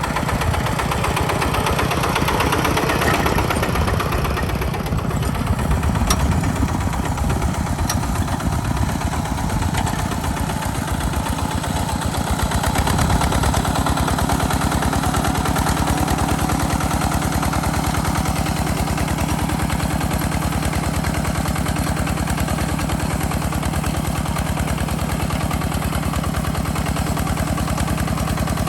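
A tractor engine running steadily with an even firing beat. Its note changes about halfway through, then holds steady.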